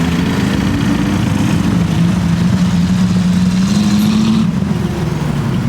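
Car engine running steadily, its pitch rising a little about two seconds in and easing back down about four and a half seconds in.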